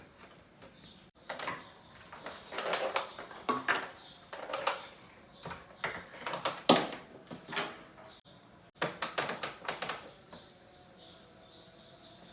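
Handling noise: a busy run of sharp clicks, knocks and scrapes, with a short pause before the last burst.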